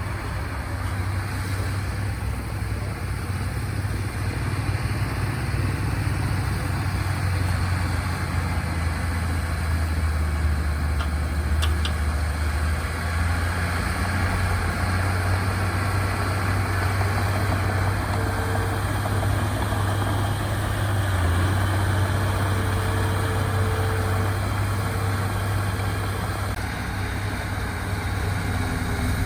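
Diesel engine of heavy earthmoving equipment running steadily, a low hum whose pitch shifts slightly a few times, with a couple of faint clicks about halfway through.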